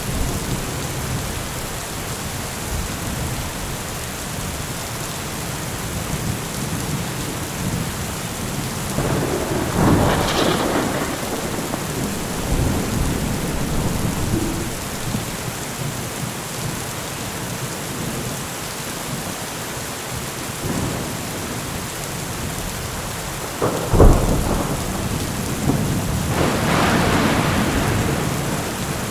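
Heavy rain falling steadily, with thunder: a rumble about a third of the way in, then a sharp crack near the end, the loudest moment, followed by a longer rolling rumble.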